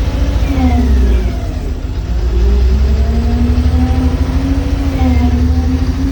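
Sany SW995K1's diesel engine running at speed, its pitch sagging about half a second in and the level dipping near two seconds before it climbs back and holds steady. The engine is short of power, which the owner puts down to a bad injector.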